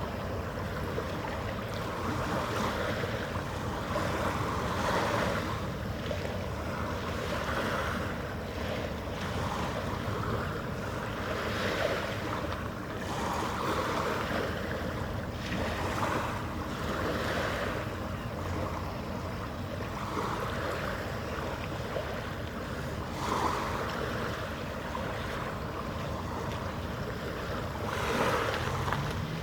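Harbour ambience: water washing and wind on the microphone, swelling every second or two, over a faint steady machinery hum.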